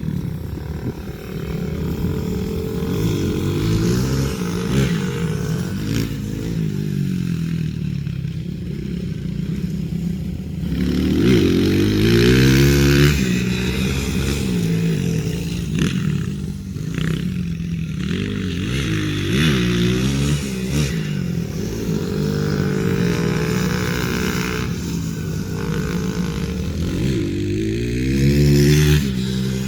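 A pit bike's small single-cylinder engine revving up and down again and again as it is ridden around a dirt track, loudest about a third of the way in and again near the end.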